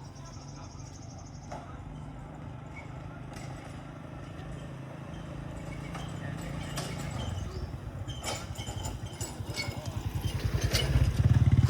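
A motorbike engine chugging at low revs, getting steadily louder as it comes close and loudest near the end.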